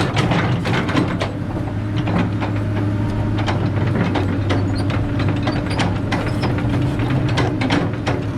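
Excavator's diesel engine running steadily under load, with frequent irregular metallic clanks and knocks from the working machine.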